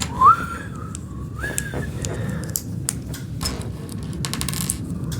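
Lego plastic pieces clicking and rattling as bricks are handled and pressed together, with dense flurries of rattling a little past halfway. Near the start there are two short rising whistle-like tones.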